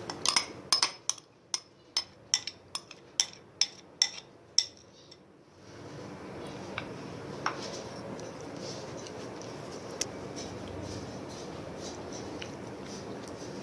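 A kitchen utensil clinking against a pot or dish, about a dozen sharp strikes roughly twice a second, which stop about five seconds in. A steady faint hiss follows, with a few light clicks.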